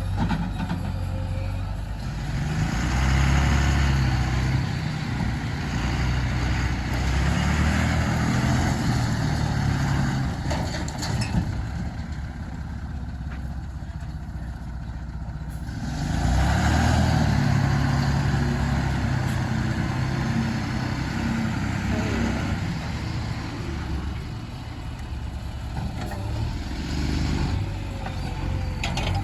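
Diesel engine of a JCB 3DX backhoe loader working under load, revving up in two long surges, one from about two to ten seconds in and one from about sixteen to twenty seconds in, and dropping back between them.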